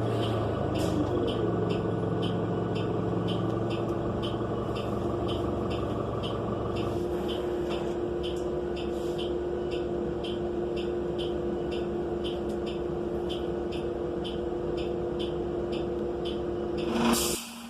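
Cummins Westport L9N natural-gas engine of a New Flyer XN35 bus, heard inside the cabin, running with a steady drone that settles lower about seven seconds in. Over it there is a regular ticking, about two a second, and near the end a short burst of air hiss.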